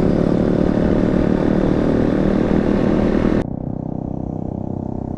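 Motorcycle engine running at riding speed, with wind rushing past. About three and a half seconds in, it cuts suddenly to a quieter, duller, steady engine sound.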